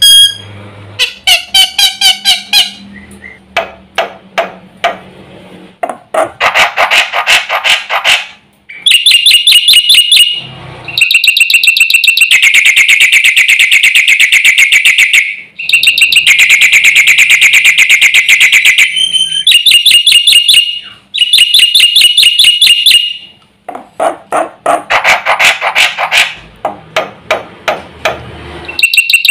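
Black-winged myna (jalak putih) singing loudly in a series of phrases: shrill repeated notes and long fast rattling trills with short pauses between them. The song is full of mimicked phrases of other birds.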